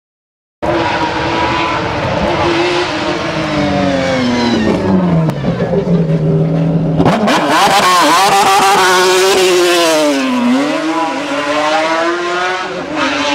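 Ferrari V12 track-car engine running at high revs. Its pitch falls for the first several seconds, then after an abrupt change about seven seconds in it climbs, dips briefly and climbs again.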